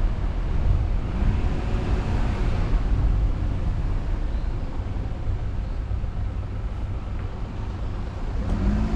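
A car driving along a road, heard from the car: a steady low rumble of engine, tyre and wind noise.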